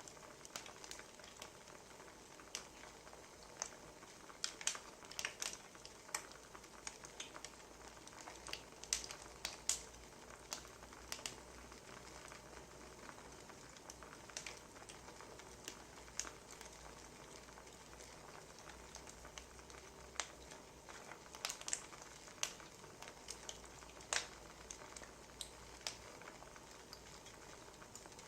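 Wood fire crackling: irregular pops and snaps over a faint, steady hiss.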